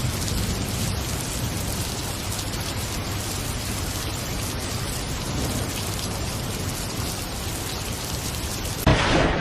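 Heavy rain pouring steadily. Near the end it gives way abruptly to a sudden loud rumble.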